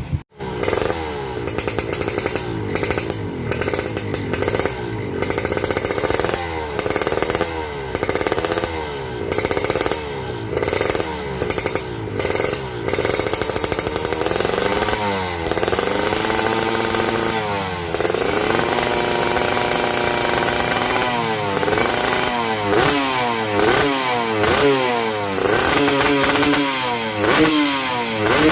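Kawasaki Ninja SS two-stroke motorcycle engine through an Arrow carbon silencer, revved over and over: quick rises and falls in pitch, with a couple of longer held revs about two-thirds of the way through.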